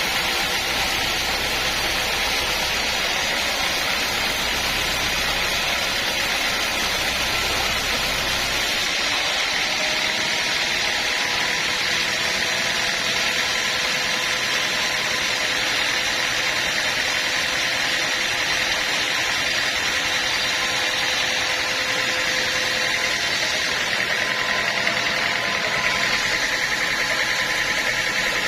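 Sawmill machinery running steadily: a dense, even mechanical noise with a faint hum. The low rumble under it drops away about nine seconds in.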